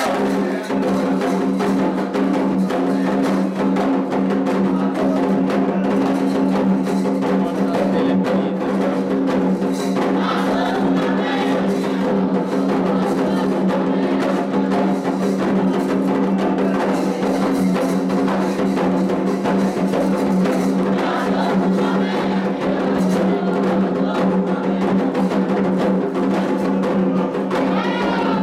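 Candomblé ritual drumming on atabaque drums, playing a continuous, even rhythm with a struck percussion part keeping time. It is a rum (drum toque) for Oxum's dance. A steady hum of a few held tones runs underneath, and faint singing comes in about ten seconds in.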